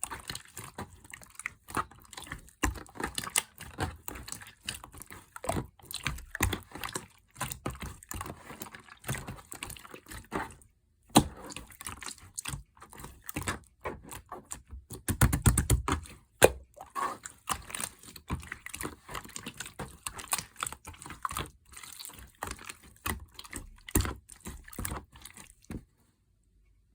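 Clear slime being squished and folded by hand, making dense, irregular sticky clicks and crackling pops, with a louder stretch of squelching about halfway through. It stops shortly before the end.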